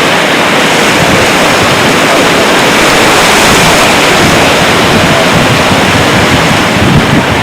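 Loud, steady rushing noise with no distinct beats or tones, typical of a CH-47 Chinook helicopter's rotor wash and turbines blasting the microphone close up.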